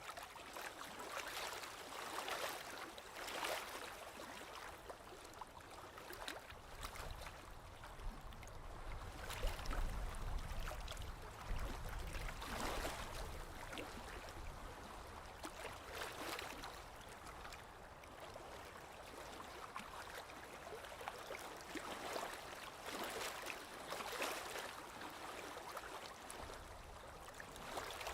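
Small waves lapping on a lakeshore: soft splashes coming every second or two. There is a low rumble for a few seconds near the middle.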